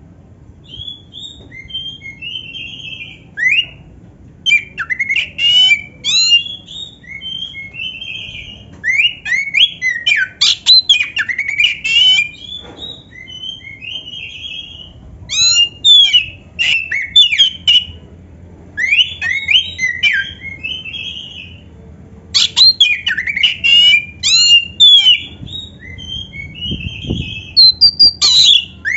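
Oriental magpie-robin (kacer) singing loud, varied phrases of sweeping whistles, trills and harsh scratchy notes, each phrase a second or two long and coming again every few seconds. The song is a kacer's filled in with canary-style phrases.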